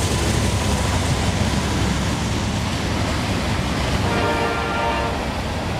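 Freight train passing close by: a steady low rumble of the cars rolling along the track. A held tone rings for about a second, about four seconds in.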